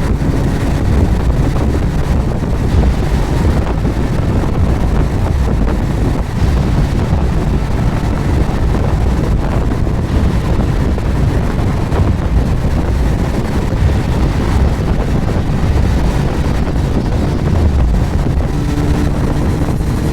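Steady rush of wind over the microphone on a moving Suzuki GSX1250FA motorcycle, with its inline-four engine running underneath.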